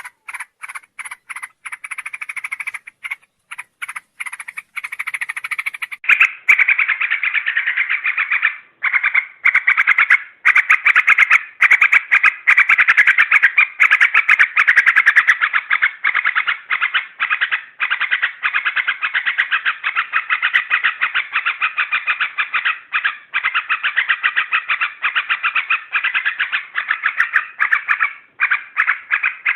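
Yellow-vented bulbul (trucukan) calls used as a lure sound: rapid, repeated short chattering notes. They are spaced out at first, then from about six seconds in run together into a louder, continuous chatter.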